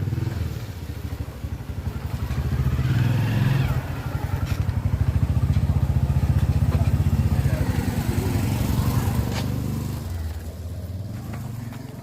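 Boda boda motorcycle taxi's engine running close by with a rapid low pulse, getting louder in the middle and easing off near the end.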